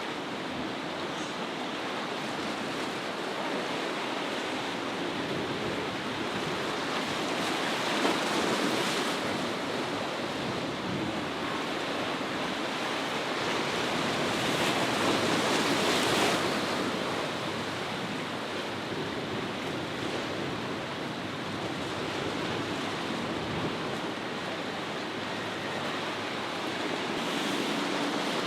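Ocean waves breaking and washing through a rough inlet, with wind buffeting the microphone; the surf swells louder about eight seconds in and again about fifteen seconds in.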